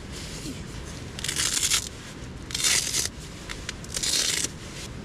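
Nylon camping gear being handled: three short rasping bursts, about a second and a half apart.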